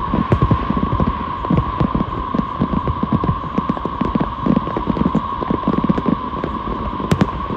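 Fireworks going off in rapid succession: a dense run of low booms, several a second, with occasional sharp cracks, over a steady high hum.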